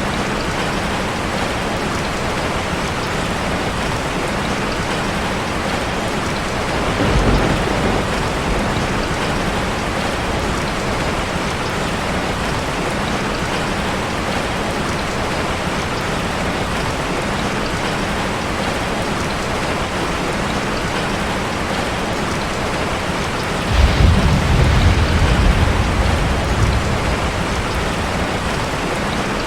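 Steady rushing of cascading water, a waterfall ambience. A short low rumble rises about seven seconds in, and a longer, louder one lasts about three seconds near the end.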